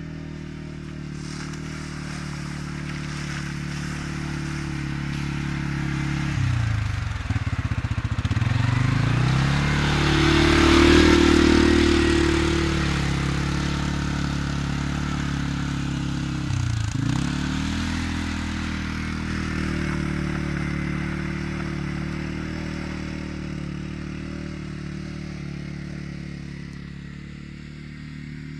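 Gladiator X450 ATV's engine running steadily, growing louder to a peak about ten seconds in as it comes closest, then fading gradually as it moves away.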